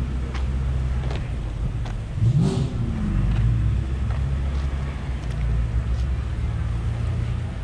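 Car engine running with a brief rev about two seconds in, its pitch sweeping up and back, over a steady low rumble.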